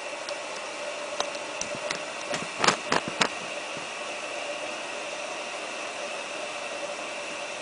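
Samsung WF8804RPA washing machine running its prewash with a steady hiss. A few sharp clicks come about two and a half to three seconds in.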